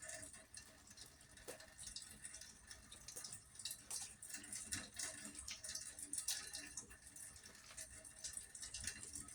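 Rain coming down, with many irregular drips and patter and water running from an open rain gutter.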